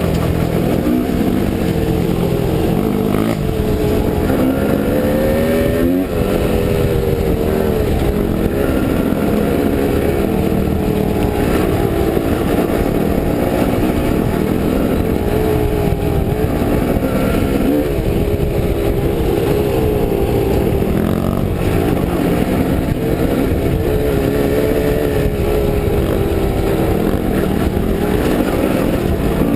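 Dirt bike engine running under load and revving up and down over and over, its pitch climbing and dropping every second or two.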